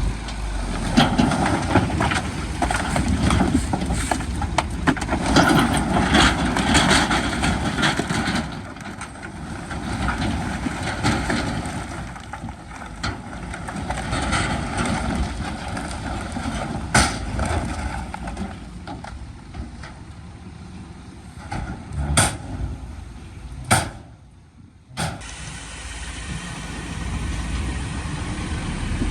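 Diesel engines of heavy earthmoving machinery running, with several sharp metallic clanks in the second half.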